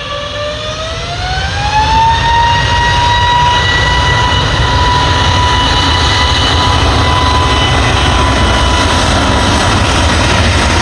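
Airliner jet engines spooling up to takeoff thrust: a loud whine that rises in pitch over the first two seconds, then holds steady over the engines' roar.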